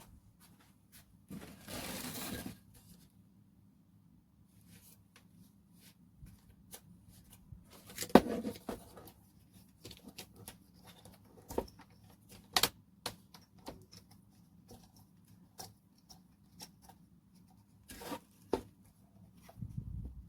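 Handling noises: scattered light clicks and taps, with two short rustling or tearing sounds, the first about two seconds in and the second about eight seconds in.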